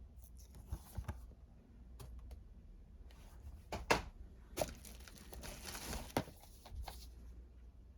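Blu-ray and DVD cases and their plastic packaging being handled: irregular clicks and crinkling, the sharpest click about four seconds in.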